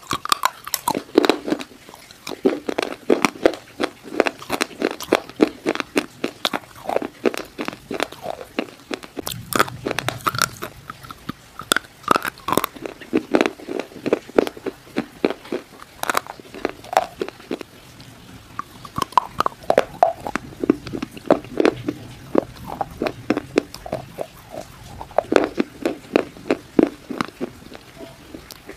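Close-miked biting and chewing of hard, dry clay-stone pieces: a steady run of sharp crunches, with a couple of brief lulls between bites.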